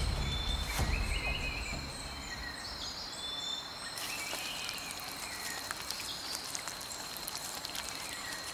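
Rainforest ambience: a steady high-pitched insect drone, with short bird-like whistled calls here and there and scattered faint clicks.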